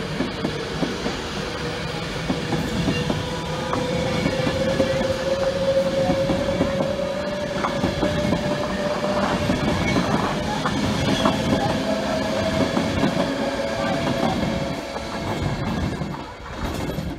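Avanti West Coast Class 390 Pendolino electric train passing close by: a rumble of wheels on rails with many clicks over the track, and a whine that rises slowly in pitch. It fades near the end as the last coach goes by.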